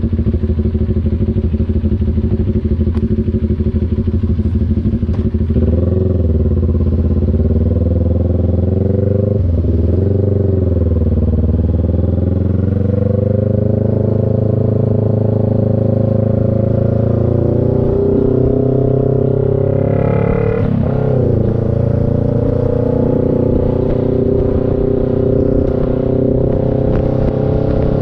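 CFMoto NK400's parallel-twin engine running under way. It runs at a low, even rev at first, then the revs climb and fall several times, with quick dips and recoveries about ten seconds in and again near twenty.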